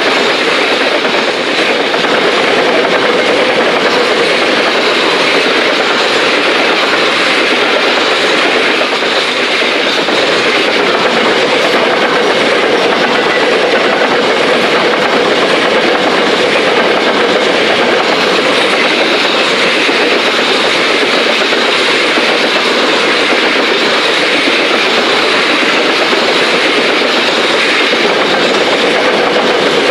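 Grain hopper wagons of a freight train rolling past close by: a loud, steady rolling noise of steel wheels on the rails, with clickety-clack.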